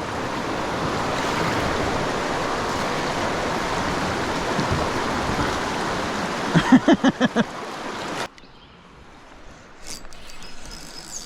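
Whitewater rapids rushing loudly around a kayak, a steady hiss of moving water. A person whoops in a quick run of short shouts about seven seconds in. The rushing cuts off suddenly a little after that, leaving a much quieter stretch.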